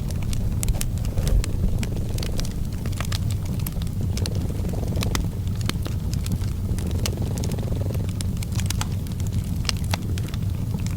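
A domestic cat purring as a steady low rumble that rises and falls in slow cycles about every two seconds. A wood fire crackles throughout, with frequent sharp pops.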